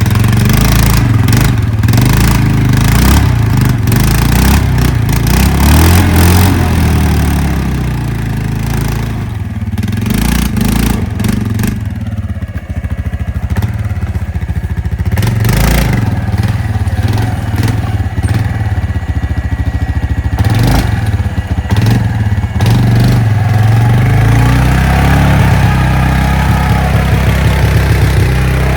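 A four-wheel-drive vehicle's engine running and revving as it is driven hard off-road, with repeated knocks and clatter throughout.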